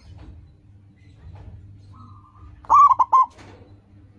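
Zebra dove (perkutut) cooing: one loud phrase about two-thirds of the way in, a longer first note followed by two quick short notes. A fainter bird call comes just before it.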